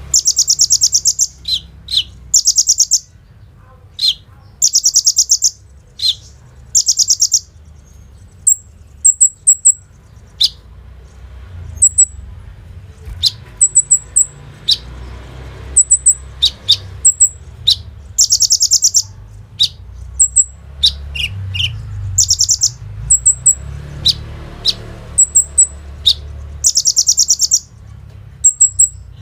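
Kolibri ninja, a sunbird, singing: rapid, dense, high trills of about a second each, repeated many times, with short very high chips and quick downward-slurred notes in the gaps.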